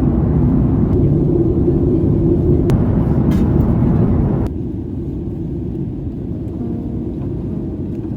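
Steady low drone of a jet airliner heard from inside the cabin. About four and a half seconds in it drops a little in level and loses its upper hiss.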